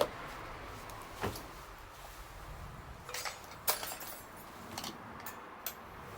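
Wood bonfire crackling: a steady low hiss with scattered sharp pops and snaps, the loudest at the very start and about half a dozen smaller ones after it.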